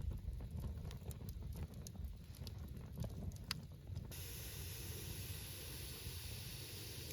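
A low rumble with scattered light clicks, then a steady hiss that starts abruptly about four seconds in.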